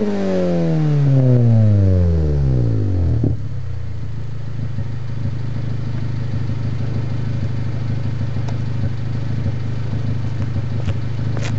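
Honda Accord CD9 engine through an Invidia N1 cat-back exhaust: a rev that falls back over about three seconds, then settles into a steady idle. A few faint clicks near the end.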